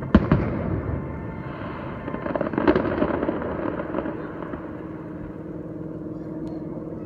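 Aerial fireworks shells bursting. A loud boom comes just after the start, then a run of quicker bangs and crackling about two and a half to three seconds in, dying away into a lingering rumble.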